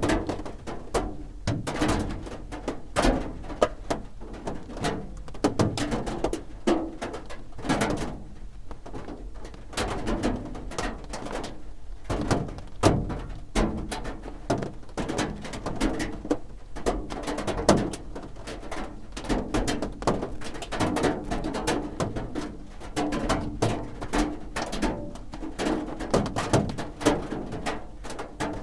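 Raindrops drumming on a roof: a dense, irregular patter of taps and knocks, some noticeably louder than others.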